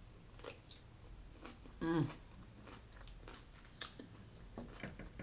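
Close-up chewing of crisp cucumber: scattered small wet crunches and mouth clicks. A brief hum of the eater's voice comes about two seconds in and is the loudest sound.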